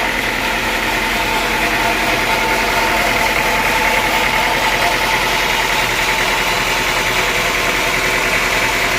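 Sawmill machinery running steadily, a constant engine-like hum with several steady tones and no change in pace.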